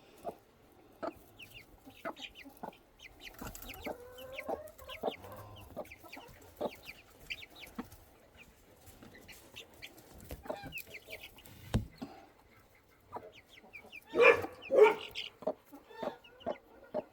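Mother hen clucking among her peeping chicks, with many short high peeps throughout and small taps. There is a sharp knock about twelve seconds in, and two louder hen calls just after.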